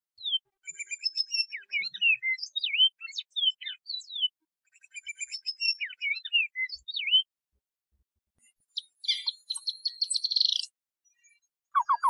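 A songbird singing two phrases of quick, varied whistled notes that slide up and down, then a fast buzzy trill near the end.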